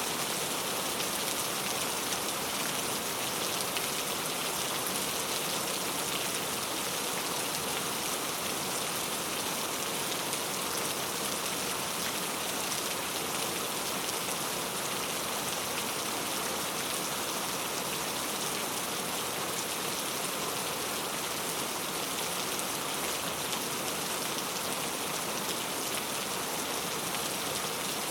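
Steady rainfall, drops pattering on surfaces in an even, unbroken hiss.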